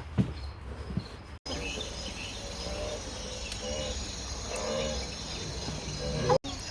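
Outdoor background noise with faint, short chirping calls over a steady hiss, broken by two abrupt edit cuts.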